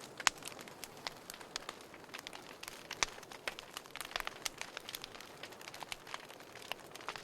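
Wood fire crackling in a fireplace: irregular sharp pops and snaps over a soft hiss, with a louder pop at about a third of a second and another about three seconds in.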